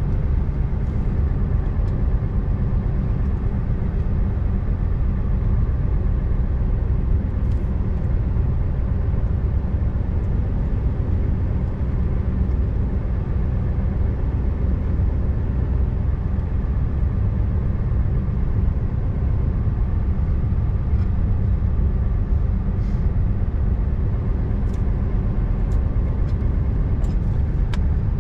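Scania R590 tractor unit's V8 diesel engine running steadily at cruising load while driving, with road noise.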